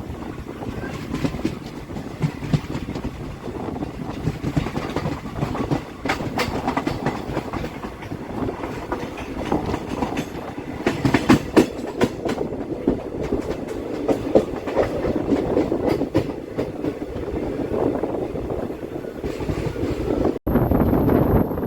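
Express passenger train running along the track, heard from on board: a steady rumble with wheels clattering over rail joints and points. A brief break near the end.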